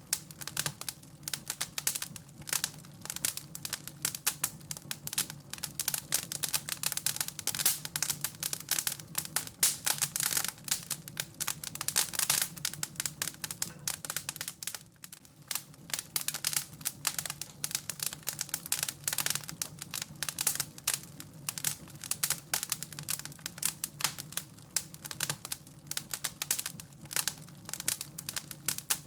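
Wood fire crackling in a fireplace, a dense run of irregular sharp pops and snaps over a steady low rumble.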